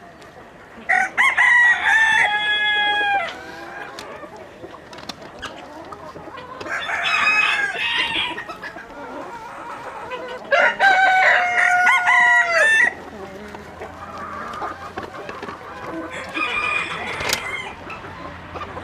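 Roosters crowing: four crows of about two seconds each, a few seconds apart, the last one fainter. Chickens cluck quietly between the crows.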